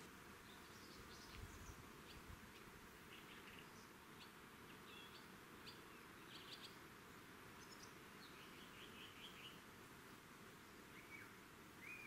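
Faint, scattered bird chirps, with a quick run of chirps about nine seconds in, over a low steady hiss.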